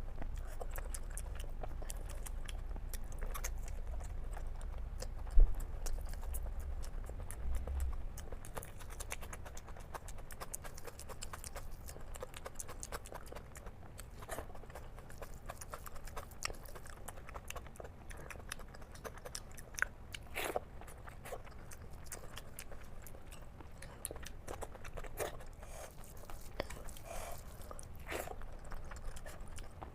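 A person chewing and eating egg curry with rice close to the microphone, with many small wet mouth clicks and smacks. A single loud knock comes about five seconds in.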